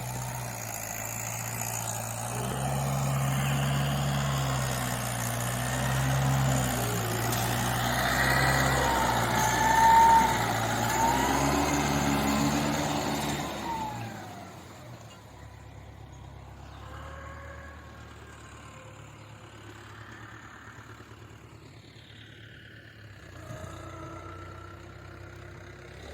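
Mahindra tractor's diesel engine running steadily and growing louder, loudest about ten seconds in. About fourteen seconds in it drops off sharply to a much fainter running sound for the rest.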